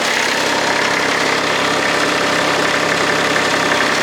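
Kubota D1105 three-cylinder diesel running steadily and driving the rider vacuum's blower, which adds a steady rush of air.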